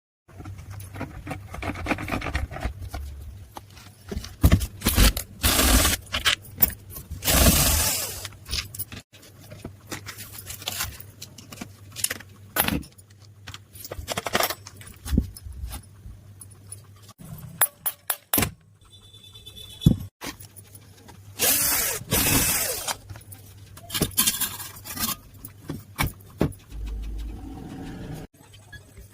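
Metal parts and hand tools clinking, scraping and knocking in irregular bursts during a gear and bearing replacement on a marble cutter.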